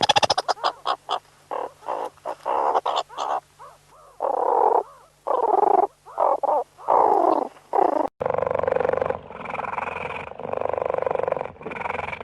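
Repeated animal calls: a quick run of short clicks, then croaking calls of about half a second each, cut about eight seconds in to a new, steadier series of similar calls.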